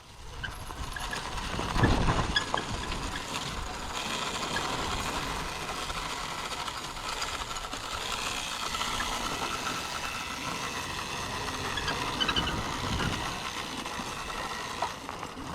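Dirt bikes riding along a trail: a steady mechanical running noise with a faint motor whine, and low wind rumble on the microphone swelling about two seconds in and again near the end.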